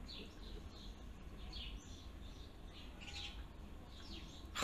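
Small birds chirping faintly in the background: short, high chirps that fall in pitch, repeating every half second or so, over a low steady hum.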